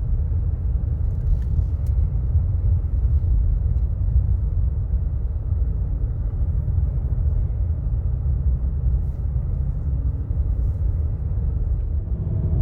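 Steady low rumble of a car driving, heard from inside the cabin: tyre and road noise with the engine underneath, no changes or separate events.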